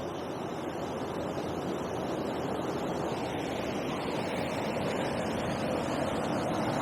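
Water rushing through a river weir: a steady rushing noise that gradually grows a little louder.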